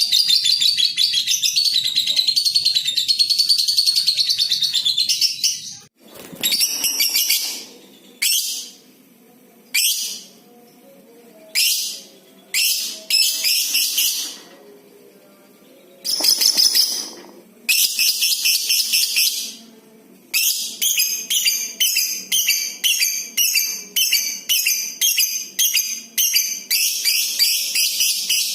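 Lovebird chattering in loud, high-pitched trills (the long 'ngekek' song): one unbroken run of about six seconds at the start, then shorter bursts with gaps between them, and in the last third a quick series of short repeated chirps, about two a second.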